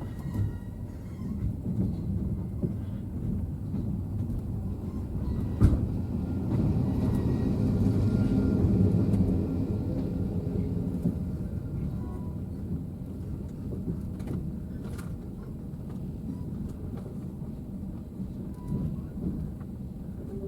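Passenger train running on the rails: a steady low rumble with a sharp knock about six seconds in, swelling louder for a few seconds before settling back.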